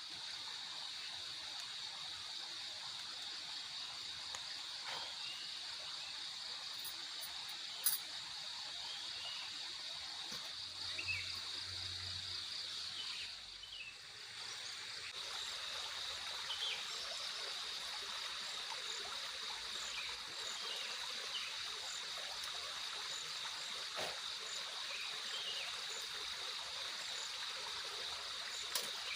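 Forest ambience: a steady high insect chorus over a constant rush of water, with scattered short chirps and a sharp click about eight seconds in.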